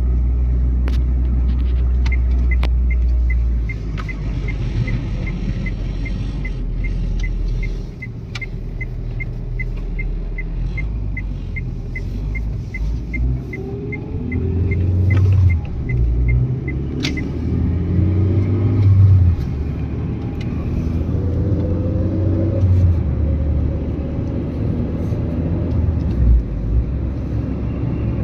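Renault Twingo driving: steady low road rumble, with the engine note rising in pitch several times in the second half as the car accelerates. A regular light ticking, about three a second, runs through the first half.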